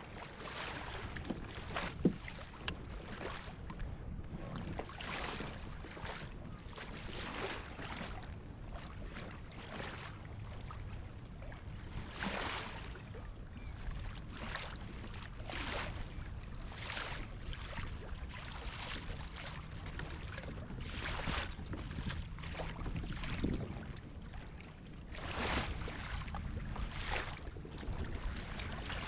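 Lake water splashing and sloshing against a kayak's hull in rough water, in surges every second or so, with wind on the microphone. There is a single sharp knock about two seconds in.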